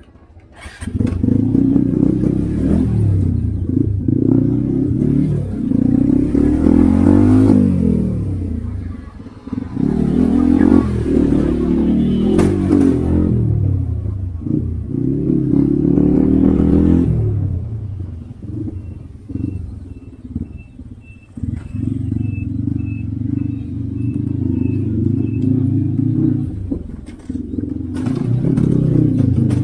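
Motorcycle engine revving up and easing off in repeated surges, as when pulling away through stop-and-go traffic, then running more steadily. Around the middle comes a run of a dozen short, high, evenly spaced beeps.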